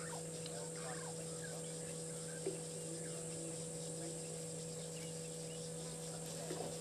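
Short, scattered bird calls, one a little louder about two and a half seconds in, over a steady low hum.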